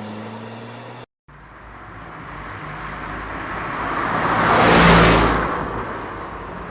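A motor vehicle's engine fading away, then after a brief break another vehicle approaching and passing by with a rising and falling rush, loudest about five seconds in.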